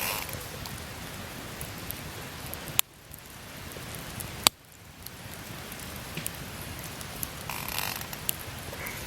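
Wood campfire burning: a steady hiss of flames with scattered sharp crackles and pops. The sound drops away abruptly twice, about three and four and a half seconds in, and builds back each time.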